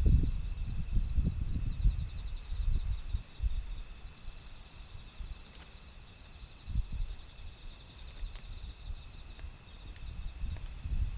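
Gusts of typhoon wind buffeting the microphone, strongest in the first few seconds and easing off, with faint crickets chirping.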